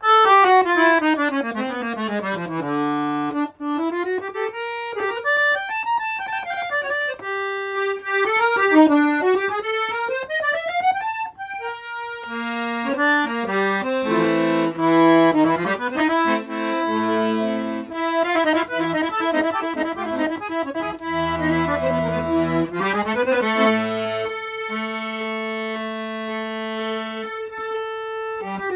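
Weltmeister half-size accordion with 26 treble keys and 40 basses being played: quick scale runs down and up on the treble keys, then from about twelve seconds in a tune with held bass and chord notes underneath.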